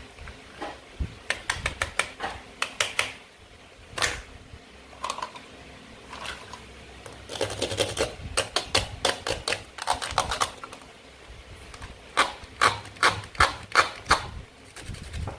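Plastic toy fruit and vegetables being cut and handled: quick runs of sharp plastic clicks and taps, several a second, in three bursts with short pauses between them.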